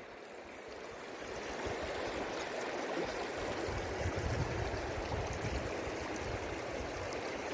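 Jayanti river water running steadily over stones. It fades in and grows louder over the first two seconds.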